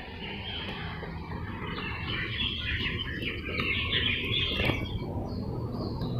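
Birds chirping in a busy run of short calls through the middle of the stretch, over a steady low background rumble.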